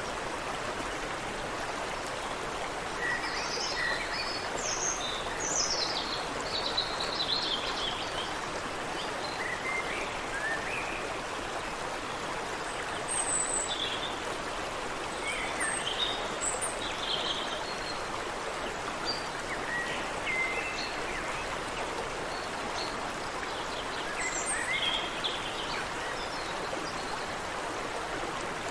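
Water running steadily in a creek, with birds chirping and whistling over it in short scattered phrases that come and go in clusters.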